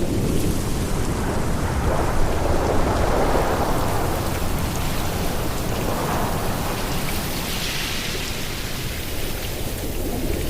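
Ocean surf: waves breaking and washing on the shore as a continuous rushing noise with a deep low rumble, swelling a few times as waves break and run up.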